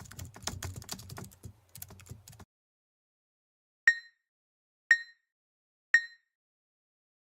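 Rapid typing on a computer keyboard, a quick run of key clicks that cuts off abruptly about two and a half seconds in. After a short silence come three short high beeps, one a second apart.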